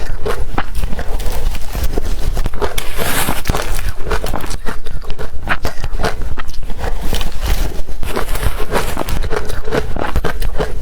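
Blender-crushed ice being bitten and chewed close to the microphone: a loud, irregular run of crisp crunches, several a second.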